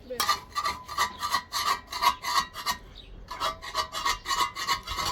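Rapid rhythmic rasping strokes, about four a second, with a faint ringing tone under them, in two runs with a short pause about three seconds in.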